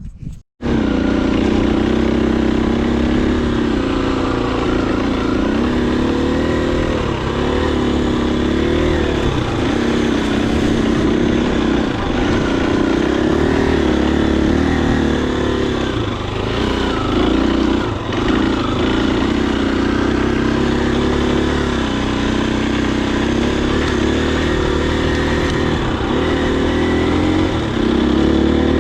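Husqvarna FE250 dirt bike's single-cylinder four-stroke engine running under way, its pitch rising and falling with the throttle.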